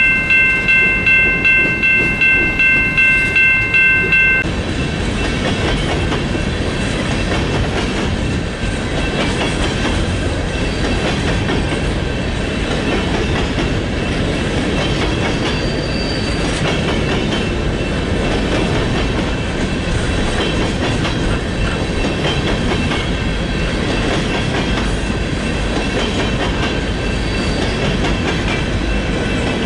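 Loaded-or-empty coal gondola cars of a long freight train rolling past close by, a steady rolling noise of wheels on rail. For the first four seconds or so a bell rings a little over twice a second, then cuts off abruptly.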